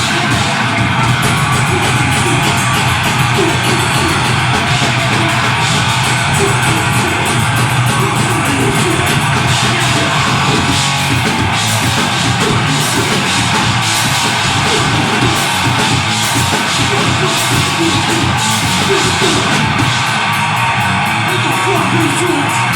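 Deathgrind band playing live at full volume: heavily distorted guitars, bass and drums in one dense, unbroken wall of sound.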